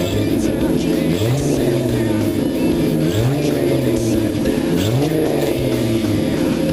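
2000 Ford Mustang's 3.8-litre V6 through a catless Pypes off-road pipe and Flowmaster 44 mufflers, revved three times, each rev climbing quickly and easing back down. Music plays underneath.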